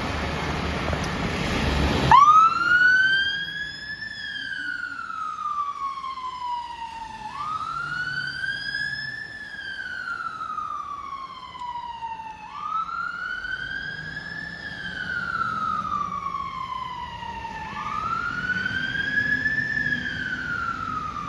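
A London Fire Brigade pump ladder's siren on a slow wail. It starts abruptly about two seconds in, and each cycle rises for about two seconds and falls for about three, four times over, with a faint low rumble underneath. Before it starts there is a loud, steady rushing noise.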